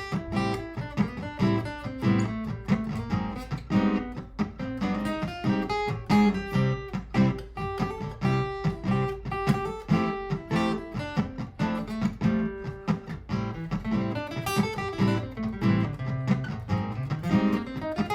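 Martin GPCPA4 acoustic guitar played through a looper: a picked improvised line over a repeating looped guitar part, with quick plucked notes and strums.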